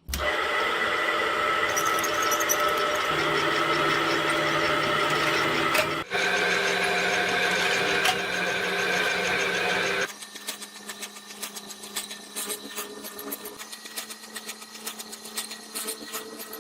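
A power tool running steadily on metal, with a brief break about six seconds in, then stopping about ten seconds in, after which quieter scraping and clicking follows.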